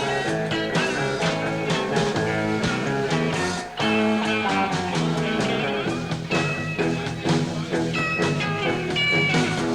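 Live rock band playing an instrumental passage, with guitar to the fore over bass and drums and no singing.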